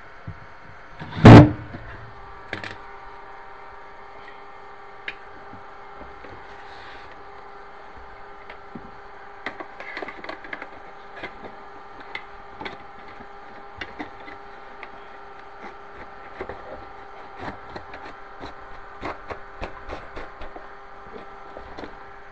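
A loud knock against a wooden kitchen cabinet about a second in, then a long run of light clicks and taps as the pull-out basket rail hardware is handled, over a steady hum.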